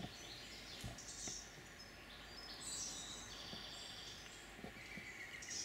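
Faint birdsong: several short high chirps and a trilling call, over a quiet steady background.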